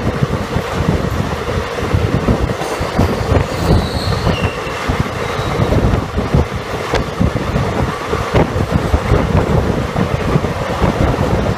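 Passenger train coach running along the track, with a steady heavy rumble and a clatter of wheels over the rails. A brief faint high squeal from the wheels comes about four seconds in.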